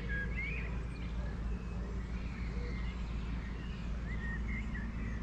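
Faint, scattered songbird chirps over a steady low background rumble.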